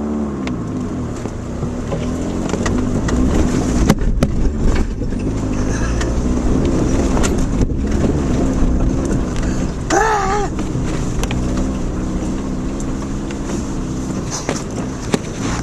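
Subaru Outback engine running under load, its pitch rising and falling as the car works along a rough dirt trail, with a few sharp knocks as it jolts over the ground about four and eight seconds in.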